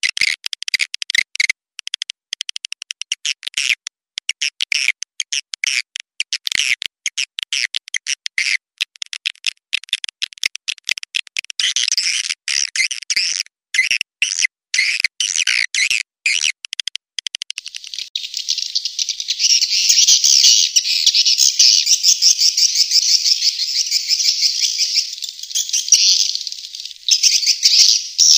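Swiftlet call recording of the kind played to lure swiftlets into a nesting house. Rapid, stuttering high chirps with short gaps turn, about two-thirds of the way through, into a denser, unbroken twittering.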